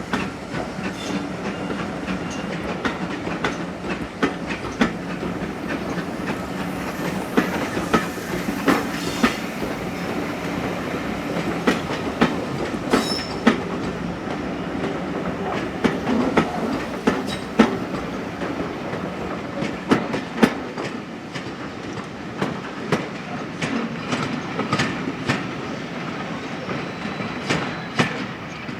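A passing train's carriages rolling along the track, their wheels clicking over the rail joints again and again in irregular pairs over a steady rumble.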